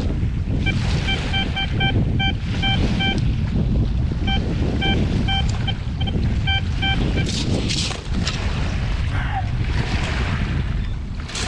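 Wind buffeting the microphone with a steady rumble. Over it, a Tesoro Cutlass metal detector gives runs of short, same-pitched beeps as it is swept, several a second, in two bursts. Some louder hissing gusts come near the end.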